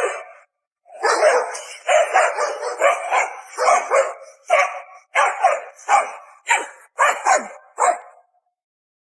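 A dog barking in a run of about a dozen barks, roughly two a second, after one short sharp sound at the start; the barking stops near the end.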